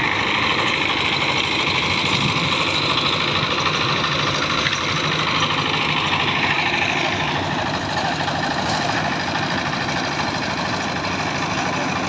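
An engine running steadily, its sound shifting slightly about two-thirds of the way through.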